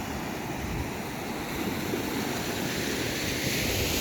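Surf washing on the shore: a steady rushing noise that swells slightly louder.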